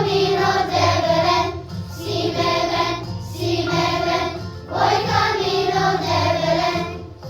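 School choir singing in sung phrases of about a second and a half each, with short breaks between them, over sustained low accompaniment notes.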